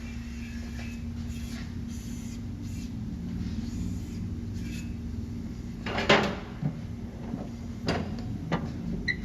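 Steady low hum with a handful of sharp clanks of tools on metal, starting about six seconds in and coming every second or so.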